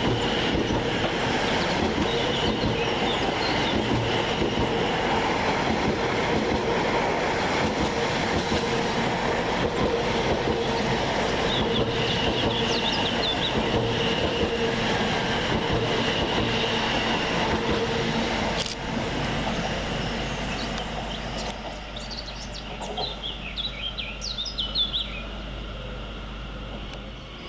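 Two coupled Class 720 Aventra electric multiple units running through the station, a steady rush of wheels on rail with a constant whine, which dies away about two-thirds of the way in. Birds chirp near the end.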